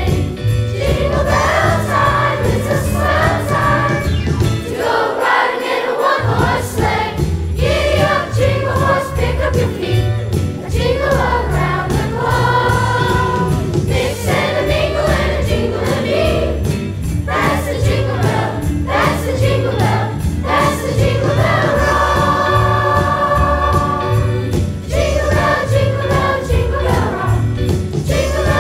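School chorus singing a Christmas song over an accompaniment with a steady pulsing bass and jingle bells.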